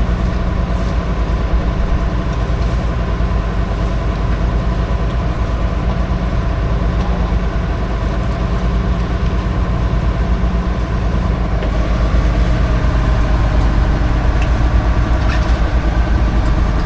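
Boat engine running steadily with a fast, even low throb, a little louder in the second half.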